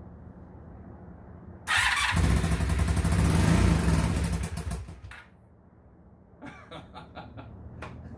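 The starter spins briefly about two seconds in, then the freshly rebuilt 2002 Honda Magna VF750C's V4 engine catches at once and runs for about three seconds before dying away. It starts easily.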